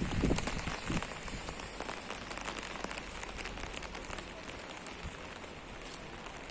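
Rain falling, a steady hiss with many small, sharp drop ticks scattered through it. A few low thumps come in the first second.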